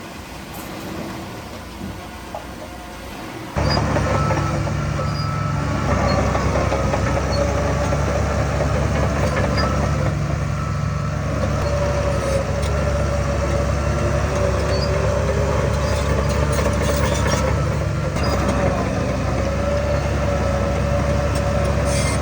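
Heavy diesel earthmoving machinery running. The sound jumps suddenly louder about three and a half seconds in, then holds a steady deep engine drone with a wavering whine above it.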